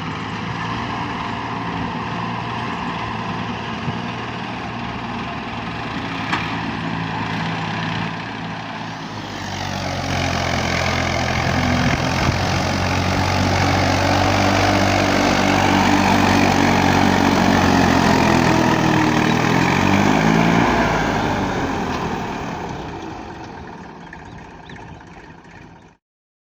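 Massey Ferguson 35 tractor engine running steadily under load. It grows louder about a third of the way in, shifts in pitch, then fades away and cuts off near the end.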